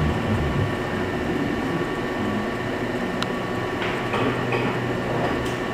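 Steady mechanical hum with a low rumble and a few held tones, with a sharp click about three seconds in and a few light knocks near the end.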